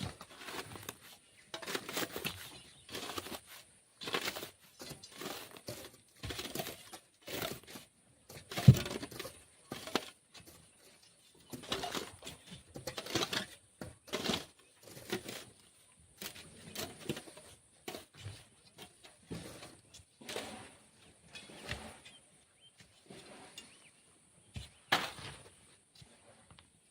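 A shovel digging and scooping black sand by hand: irregular scraping, crunching strokes every second or so with short pauses between, and one sharper, louder knock about a third of the way through.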